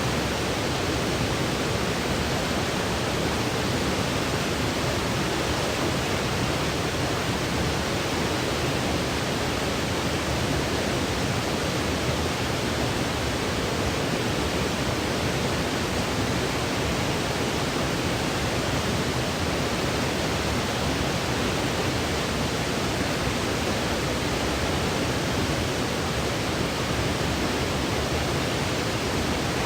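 Steady white noise for sleep: an even, unchanging hiss with no rhythm, breaks or swells.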